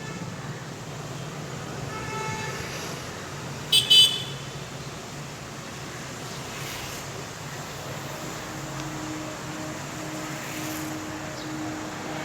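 Road traffic hum with a vehicle horn giving two short, loud toots about four seconds in, after a fainter horn note about two seconds in. A low tone repeats at a steady pace in the last few seconds.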